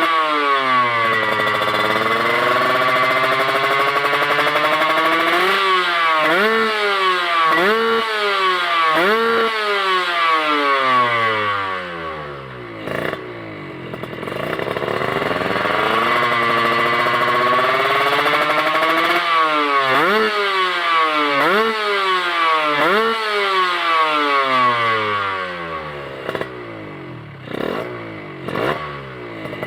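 Kawasaki Ninja 150R two-stroke single-cylinder engine through an HPM galvanised-plate racing exhaust, revved again and again, each rev climbing in pitch and dropping sharply. A few sharp cracks come about halfway through and near the end.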